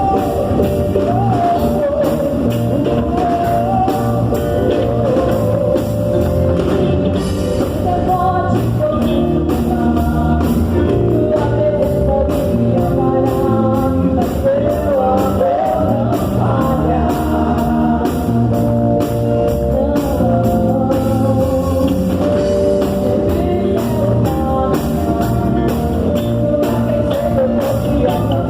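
Live worship band playing a rock-style praise song, with electric guitar and drum kit under a singing voice.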